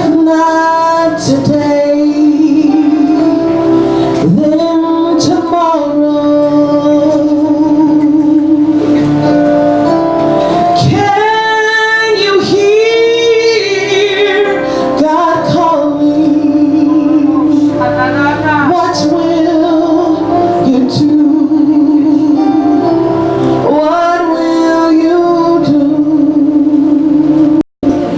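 A woman singing over instrumental accompaniment, with long, wavering held notes and quick runs. The sound cuts out for a moment near the end.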